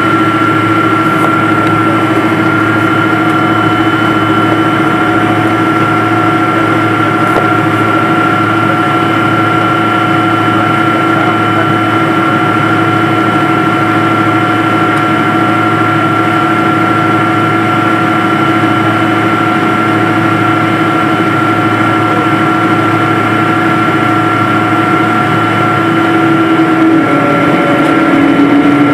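Airliner jet engines heard from inside the passenger cabin: a steady rushing noise with several held whining tones, one of which steps down in pitch near the end as the engine setting changes.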